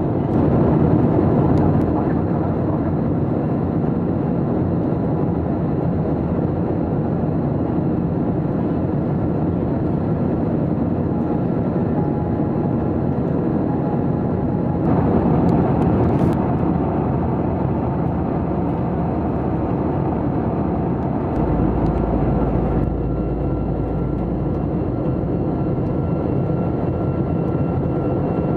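Steady jet engine and airflow noise heard inside the cabin of an Airbus A321-200 airliner, with a faint steady whine. The noise turns brighter and hissier for several seconds about halfway through.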